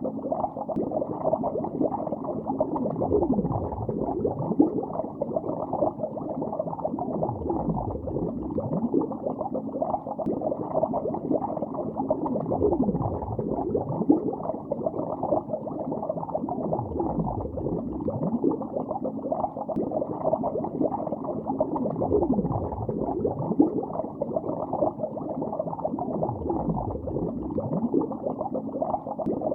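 Continuous underwater bubbling heard from below the surface, dull and muffled, with a slow sweep down and back up in pitch recurring about every four to five seconds.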